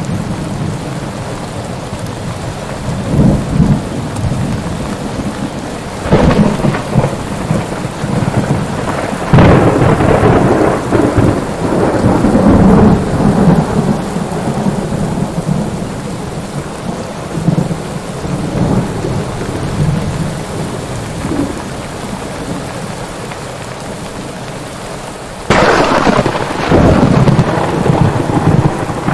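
Thunderstorm: steady rain with rolling thunder. Sharp thunderclaps crack at about six seconds, near ten seconds and again near the end, each rumbling on for several seconds.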